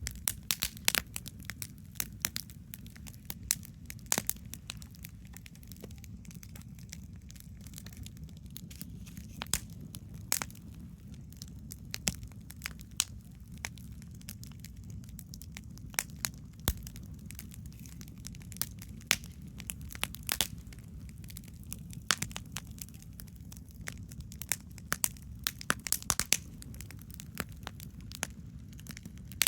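Wood campfire crackling, with irregular sharp pops and snaps, some loud, over a steady low rumble.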